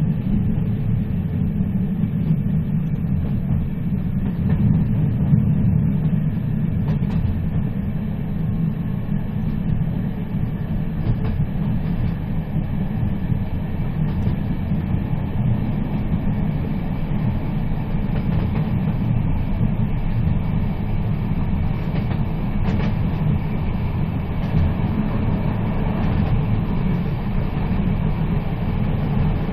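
Moving train: a steady low rumble with a few faint clicks scattered through it.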